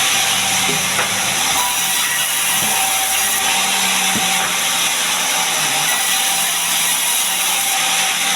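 Sawmill saw cutting a gmelina log into boards: a loud, steady cutting noise with a constant machine hum underneath.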